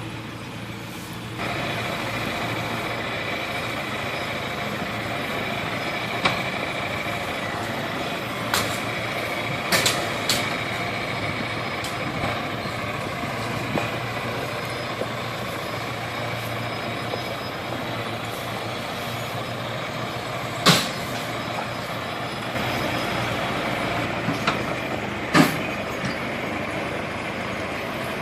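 Heavy truck engine running steadily, picking up about a second and a half in, with several sharp knocks or clanks over it, the loudest two near the end.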